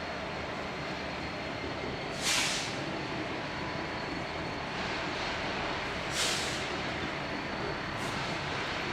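Freight train air brakes hissing in two short bursts about four seconds apart, over a steady low rumble from the train.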